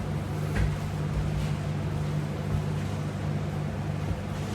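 Steady low droning hum of room machinery or electrical hum, with a few faint rustles as a person settles onto the floor.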